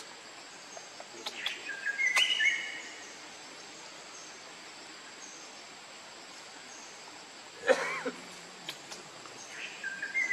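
Outdoor ambience with a steady insect hum, and a bird calling the same short phrase of stepped whistles twice, about two seconds in and again near the end. About eight seconds in there is one brief, loud, low vocal sound.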